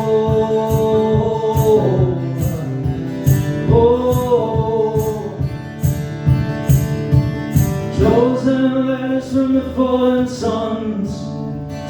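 Live song: a male voice holds three long wordless 'oh' notes over steadily strummed acoustic guitar.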